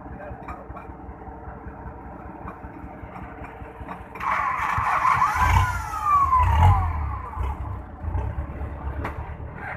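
A heavy diesel engine runs steadily, then about four seconds in it surges loudly with a falling whine and a heavy low rumble, the sound of the engine being started or revved hard. It settles back to running near the end.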